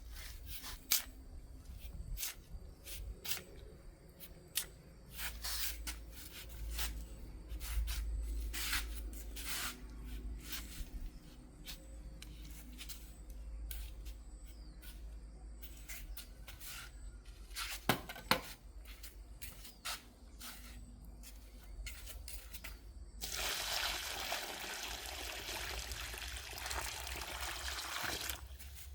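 Scattered light clicks and knocks, then, about six seconds before the end, a steady rush of running water starts and keeps going.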